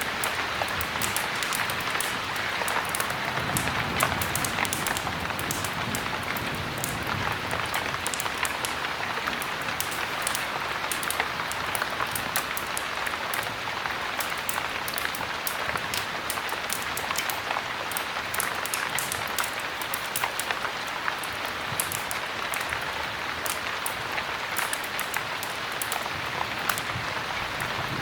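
Steady heavy rain, a dense even hiss, with a wood fire crackling in a fireplace: many small sharp crackles scattered throughout.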